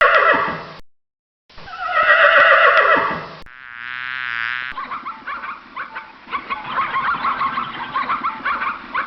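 Animal calls: two drawn-out calls that fall in pitch, then a rapid run of short high-pitched cries.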